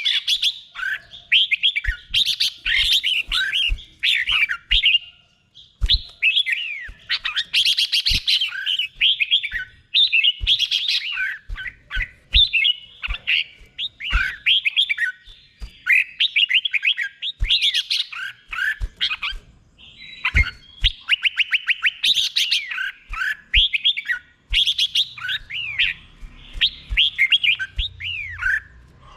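Red-whiskered bulbul singing its doubled song: quick whistled phrases, each phrase repeated, with short pauses between bursts.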